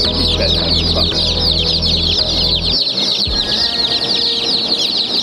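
A crowd of young chicks peeping together: dense, continuous high-pitched chirping from many birds at once. Background music plays underneath for roughly the first half.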